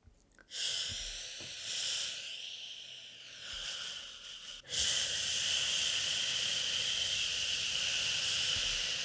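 Shushing 'shhh' hiss for soothing a baby, swelling and fading in the first few seconds, then after a brief break about four and a half seconds in, held as a long steady shush.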